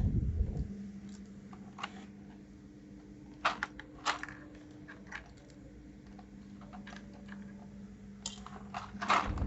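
Scattered plastic clicks of keycaps on a mechanical keyboard, irregular rather than a typing rhythm, with a cluster of louder clicks near the end. A faint steady hum runs beneath.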